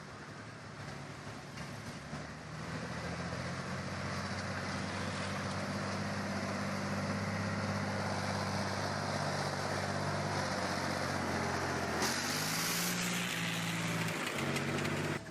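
Off-road 4x4's engine running steadily under load as it crawls over rough ground, growing louder after a couple of seconds. About twelve seconds in, a brief burst of hiss joins it.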